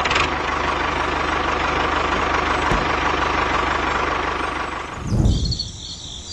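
Engine running with a rapid, even chug for about five seconds, then it stops. Near the end a shrill high-pitched chirring takes over.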